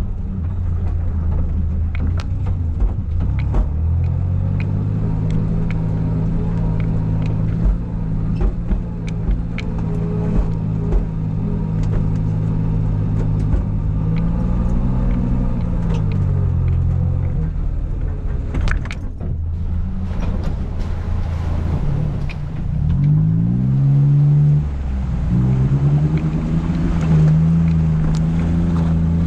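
Suzuki Jimny JA11's small three-cylinder turbo engine running at low revs as it crawls over a rough dirt track. The revs rise and fall a few times, most in the second half. Scattered clicks and knocks run through it.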